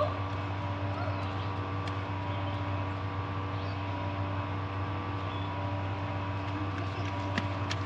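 Steady drone of a vehicle running, heard from inside the cabin, with a low hum and a few faint steady tones above it.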